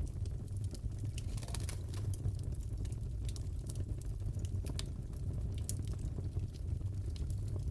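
Wood fire crackling in a fireplace: scattered sharp pops and crackles over a low steady rumble.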